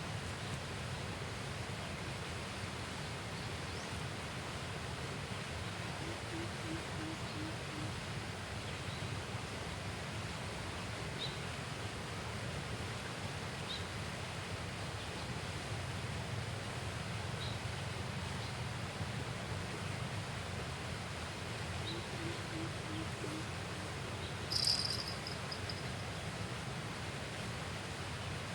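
Steady outdoor ambience with a constant hiss and low rumble. It holds a few faint high ticks and two short runs of low pulsing calls. A brief, louder high-pitched chirp comes near the end.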